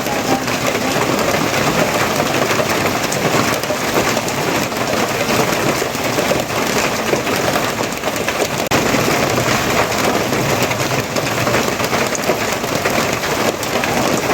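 Steady rain falling, a dense, even hiss of many drops with no letup.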